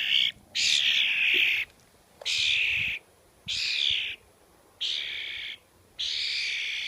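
A young bird giving harsh, raspy screeching calls over and over, each under a second long, with short gaps between them, about six in all. These are begging calls from a bird that has taken a person for its parent.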